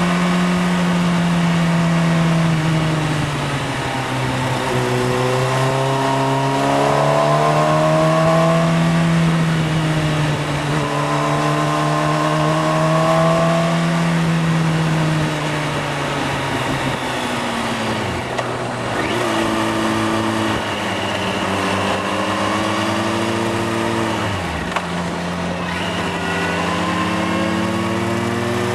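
Motorcycle engine under way, its pitch rising and falling in long sweeps as it accelerates and eases off, with two sudden drops in pitch about two thirds of the way in and again near the end.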